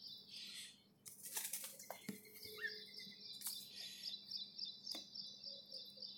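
Faint bird chirping in the background, a rapid run of repeated high chirps through most of the stretch, with a few faint clicks.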